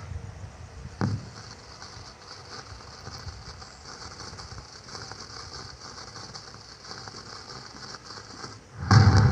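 Firecracker sound effects from an LED pixel cracker light: a sharp bang about a second in, a long fizzing crackle, then a loud burst near the end.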